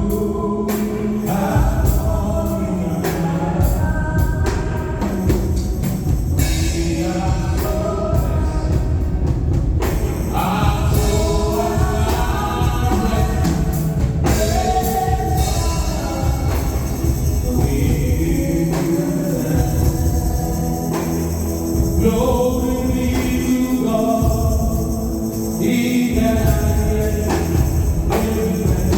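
Gospel praise music: a choir singing with a band, with strong bass and a steady beat.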